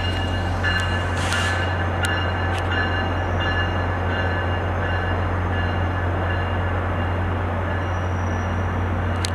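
Steady low drone of trains idling in a station, with a faint steady high whine, a few sharp clicks and a short hiss about a second in.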